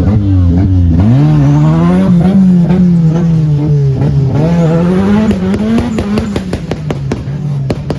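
Car engine revving up and down repeatedly at high revs, its pitch rising and falling every second or so. From about six seconds in it gives way to a rapid string of sharp pops.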